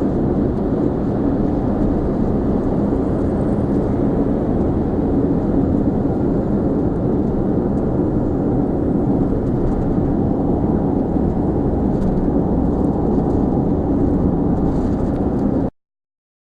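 Steady road and engine noise inside a car's cabin while driving at about 50 mph, a constant low rumble that cuts off suddenly near the end.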